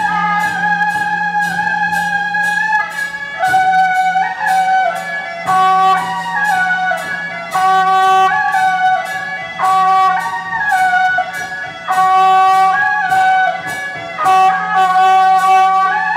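Procession music: a loud wind instrument plays a melody of held notes over evenly repeated percussion strikes, with a steady low hum beneath.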